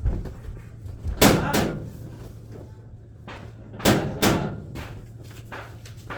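Sharp knocks and bangs: two pairs of loud impacts, one about a second in and one about four seconds in, with a few lighter knocks near the end.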